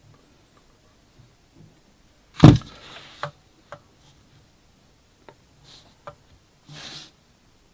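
Handling sounds: a loud thud of something set down on a hard surface about two and a half seconds in, followed by several small sharp clicks and two brief rustles.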